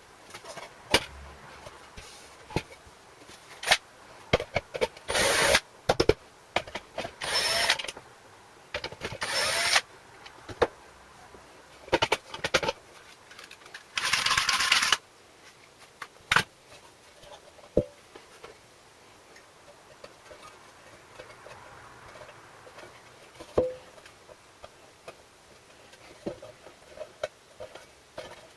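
Workshop tool work on small-engine parts: scattered clicks and knocks of tools and metal parts, with four short noisy bursts, the last about a second long.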